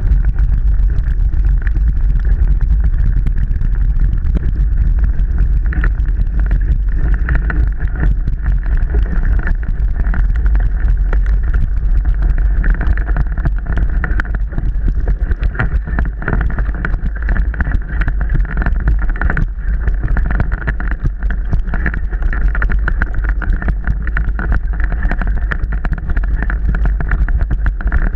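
Mountain bike ridden over rough trail: a constant low rumble of wind and terrain on the microphone, with many small knocks and rattles from the bike.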